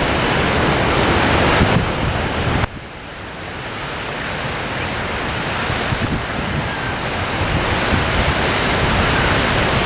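Ocean surf washing with wind buffeting the microphone. The noise drops off suddenly about a quarter of the way in, then builds back up gradually.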